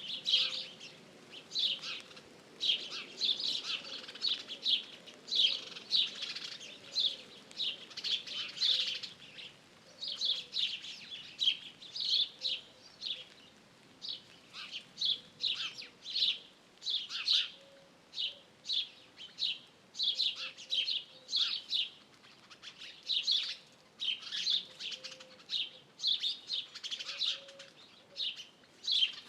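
Small songbirds chirping continuously, a steady stream of short, high chirps, several a second.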